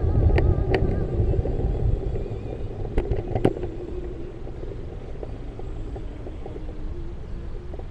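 A low rumble, loudest at the start and fading over the first two seconds, with a few sharp clicks and a faint wavering hum later.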